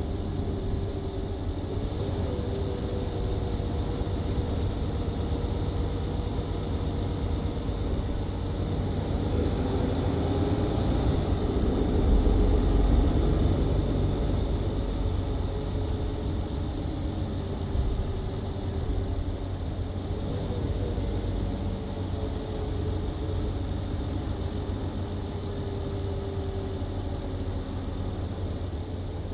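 Mercedes-Benz Citaro C2 LE hybrid bus with a Voith automatic gearbox, heard from inside while driving: the diesel engine and drivetrain run steadily, with tones that glide up and down in pitch. They grow louder as the bus accelerates about ten seconds in, then ease back a few seconds later.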